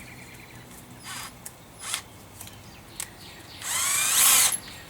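A few light clicks and short rattles, then a power drill runs for about a second near the end, its pitch rising as it spins up. This is the drill being readied to bore pilot holes for self-tapping screws.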